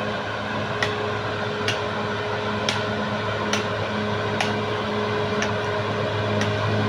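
Caterpillar D6R XL bulldozer's diesel engine running low and steady with a hum and a high tone, a short click coming about once a second.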